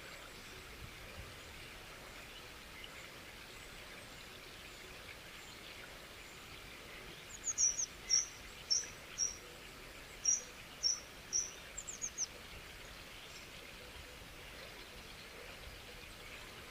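A bird gives a quick run of about a dozen short, high chirps, each dropping in pitch, midway through. Under it runs a steady hiss of flowing water.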